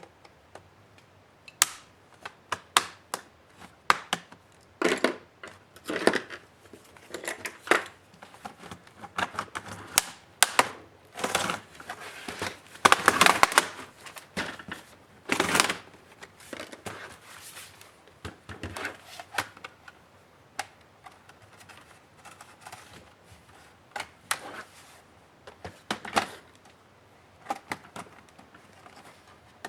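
Laptop parts and small tools being handled during disassembly: irregular clicks, taps and short scrapes, with a longer scrape about thirteen seconds in.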